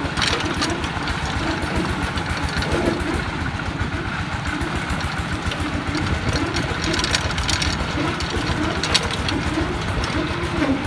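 Single-cylinder D22 diesel engine of a công nông farm truck idling steadily, with a few light clicks over it.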